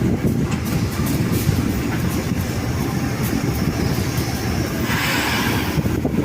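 Train running on the track at a station: a steady low rumble, with a short hiss about five seconds in.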